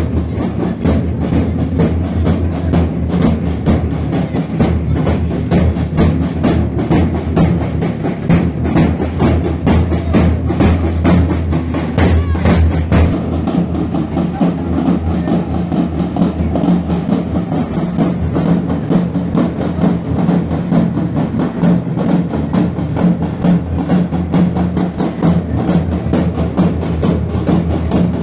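Drumming with a fast, steady beat, with a deep drum underneath.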